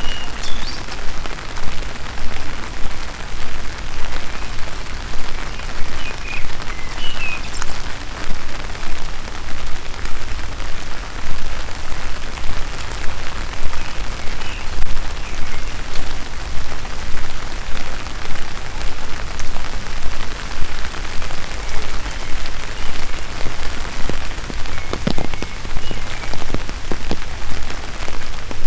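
Steady rain falling, with the walker's footsteps pulsing regularly about twice a second.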